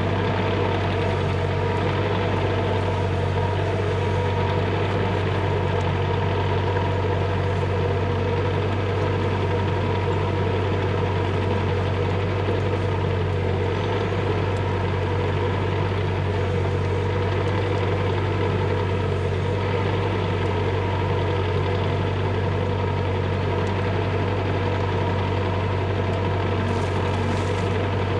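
Bobcat E35 mini excavator's diesel engine running at a steady speed, without revving up or down.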